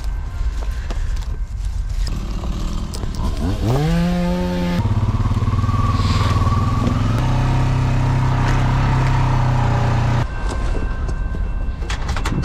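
Honda Rancher four-wheeler's single-cylinder engine revving up about four seconds in, then running steadily at higher revs for several seconds before stopping abruptly.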